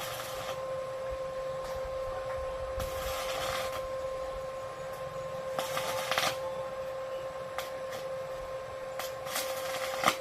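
Electric arc welding: three short bursts of hissing, crackling arc, each under a second long, over a steady electrical hum from the welding machine.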